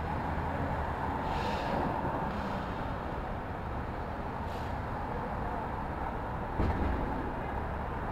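City street ambience: a steady low rumble of traffic, with a few brief clunks and knocks over it, the loudest near the end.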